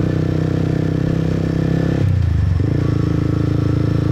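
Motorbike engine running steadily under the rider. About two seconds in its note briefly drops to a low rumble for about half a second, then picks up again.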